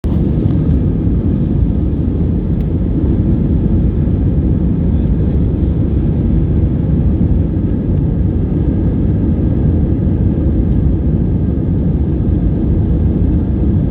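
Airliner engines producing a steady, loud low rumble with no breaks.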